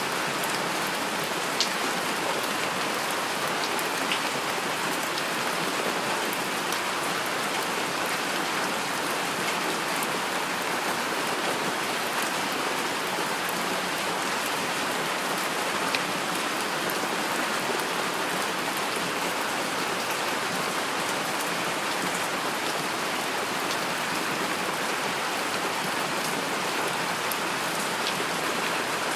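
Heavy rain falling steadily, with a few sharper drop ticks standing out, about two and four seconds in and again about midway.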